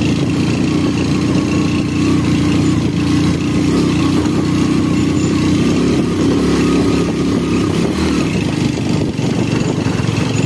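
Small 110 cc motorcycle engine running steadily under way on a rough dirt road, heard from on the bike.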